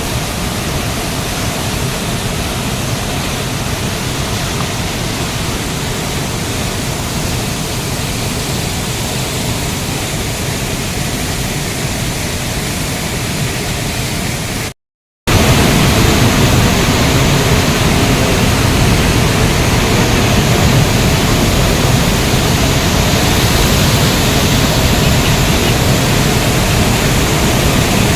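Steady, loud rush of the Budha Ghagh waterfall's falling water. The sound cuts out for about half a second midway, then comes back slightly louder.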